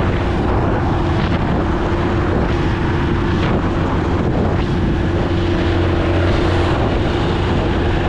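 Motorcycle cruising at a steady speed, its engine a constant hum under heavy wind noise buffeting the microphone.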